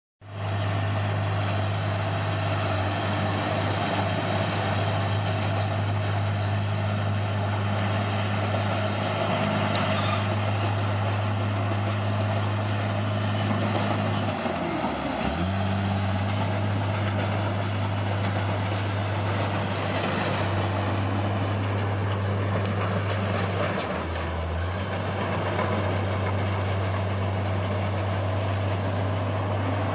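Caterpillar D6R bulldozer's diesel engine running with a steady hum, its revs dipping sharply and recovering about halfway through, with a smaller wobble later on.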